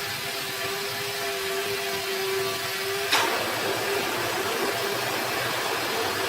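Sawmill saw running with a steady mechanical hum, with a sharp knock about three seconds in.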